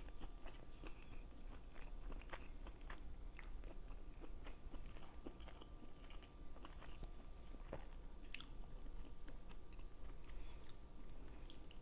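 A person chewing a big mouthful of food close to the microphone, with many small, irregular mouth clicks and smacks.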